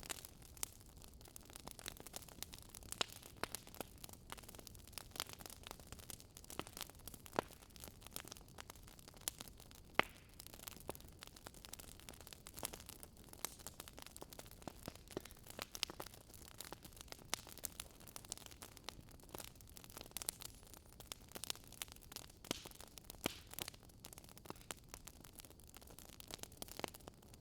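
Wood fire crackling: irregular pops and snaps over a soft, steady hiss.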